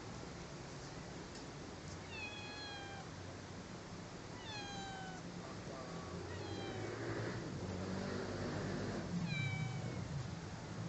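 Angora cat meowing repeatedly: about four short, high meows that each fall in pitch, a couple of seconds apart. A rustling noise swells in the second half.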